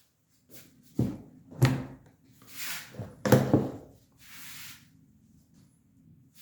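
Several sharp knocks, about a second in and again a little later, with scraping noises between them.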